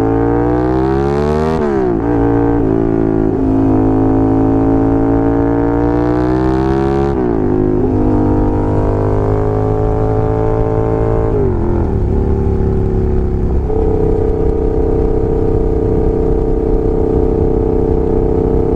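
Suzuki SV650S's 645 cc V-twin engine under way through the gears: the revs climb over the first two seconds, drop at an upshift, climb again until about seven seconds in and drop at another shift. After a further shift about eleven seconds in, the engine holds a fairly steady note to the end.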